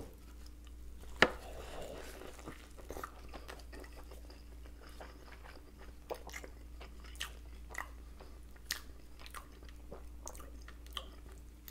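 Close-miked eating of a stacked multi-patty Big Mac: one sharp click about a second in as the bite goes in, then quiet chewing with small wet clicks and crunches of iceberg lettuce.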